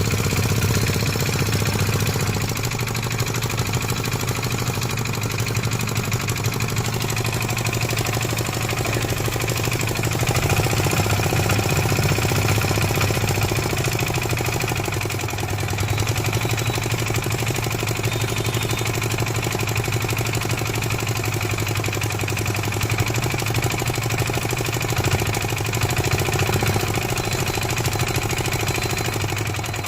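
Kamco power reaper's small engine running steadily at a constant speed after servicing.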